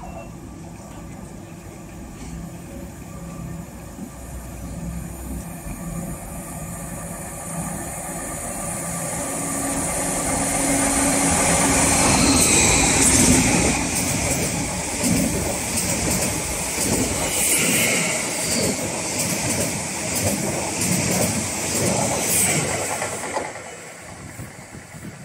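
Electric multiple-unit train approaching and running through the station. The sound builds over several seconds to a loud rush of wheels on rail, with a train of quick clicks as the wheels cross rail joints, then fades near the end as it moves away.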